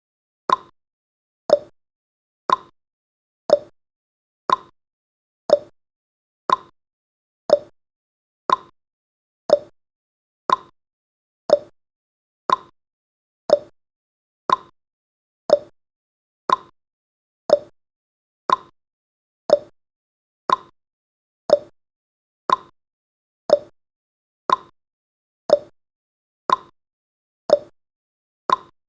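Clock-style tick-tock sound effect of a countdown timer: one short tick each second, alternating higher and lower in pitch.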